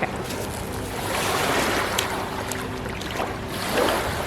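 Lake water washing and lapping with wind on the microphone, swelling gently a couple of times, over a faint steady low hum.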